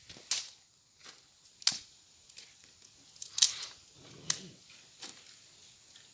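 Dry firewood and branches being handled, giving about five sharp cracks and snaps at irregular intervals, the loudest about three and a half seconds in.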